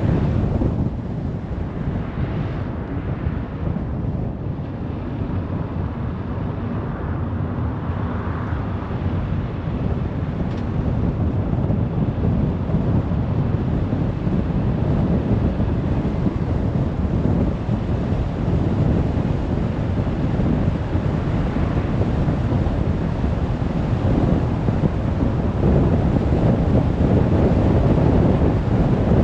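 Steady wind and road noise of a car being driven, a dense low rumble that grows a little louder near the end.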